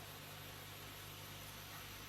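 Faint steady hiss with a low, even hum underneath: the background noise of the recording, with no other sound.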